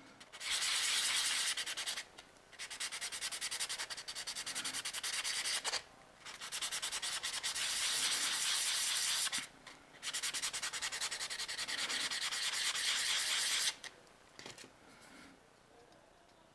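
Rapid back-and-forth sanding of a plastic model-kit part with an abrasive, in four spells of quick, even strokes with short pauses between them.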